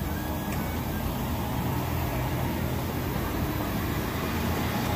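Steady low hum of a running motor vehicle, with no changes or distinct events.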